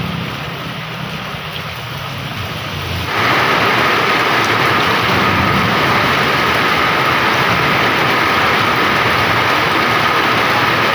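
Heavy rain pouring, a steady hiss that turns suddenly much louder about three seconds in.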